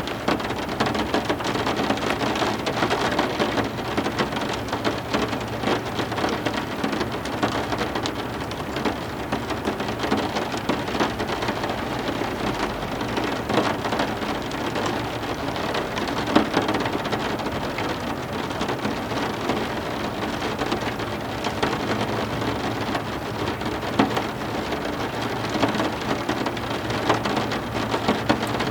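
Heavy rain falling steadily, a dense hiss of countless drops splattering on hard surfaces.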